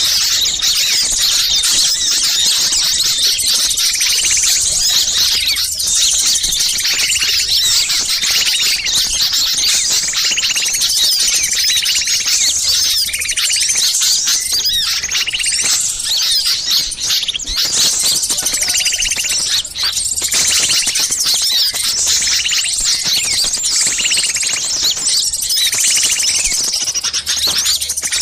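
A dense chorus of many small songbirds chirping and scolding at once, used as a lure recording to draw wild birds. Over the rapid high chirps, a lower call repeats about once every second or so.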